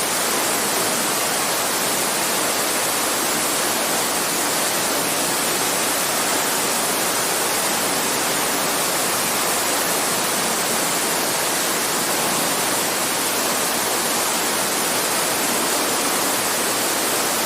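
Campfire crackling: a steady, dense hiss of fine crackles, even in level throughout.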